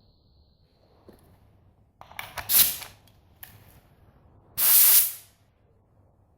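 Paint being sprayed in short bursts of hiss: several quick bursts about two seconds in, then one longer burst of about half a second near the five-second mark.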